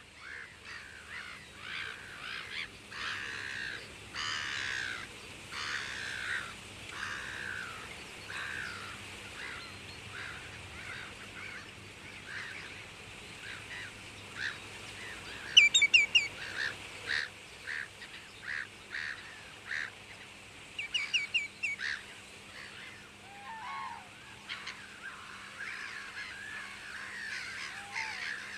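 Wild birds calling: a running chorus of short calls, with two quick runs of sharp, high chirps, the loudest sounds, about halfway through and again some five seconds later.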